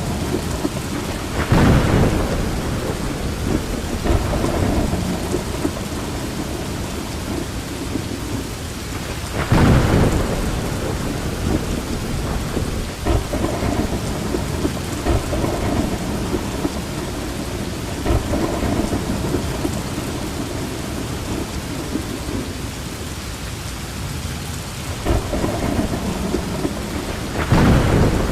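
Steady rain with thunder: three loud rumbling claps, about two seconds in, about ten seconds in and near the end, with softer rolls of thunder between them.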